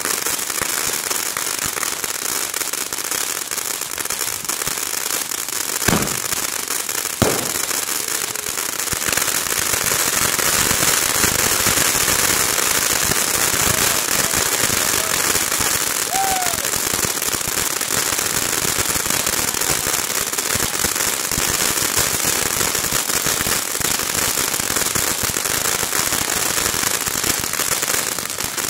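Consumer ground fireworks going off together, making a dense, continuous crackle of small pops, with two louder bangs about six and seven seconds in.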